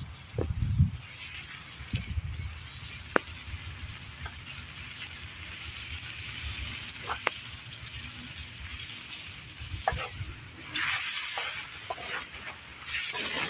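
Meat frying and sizzling in a wok over a campfire. Now and then a utensil clicks sharply against the pan, there are a few low knocks near the start, and the sizzle swells twice near the end as the food is stirred.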